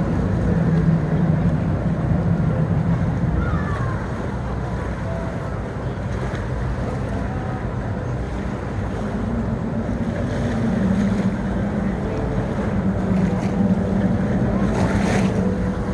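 Motorboat engines running steadily as boats pass, over the wash of waves and wind buffeting the microphone. The engine note shifts slightly higher about ten seconds in.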